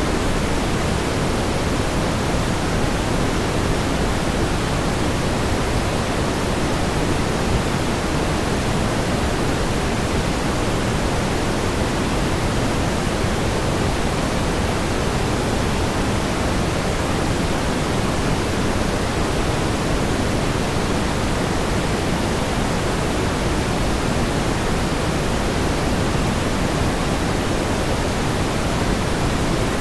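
Steady pink noise: an even, unchanging hiss, fuller in the low end than in the high end, with no rise or fall.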